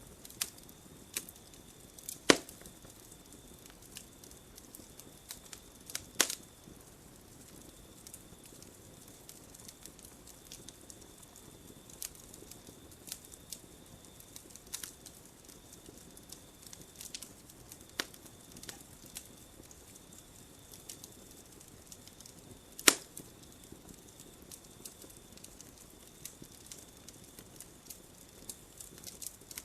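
Wood campfire crackling, with scattered sharp pops and snaps; the loudest snaps come about 2, 6 and 23 seconds in.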